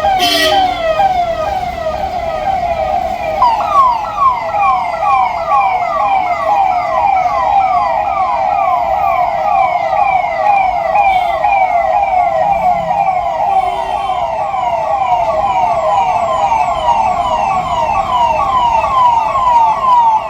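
Electronic siren sounding a fast yelp: a rising sweep that repeats about three times a second without a break.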